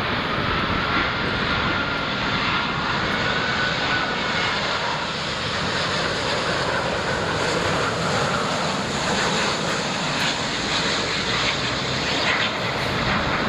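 Jet airliner's engines running as it passes, a steady broad roar with a faint high whine through the first half.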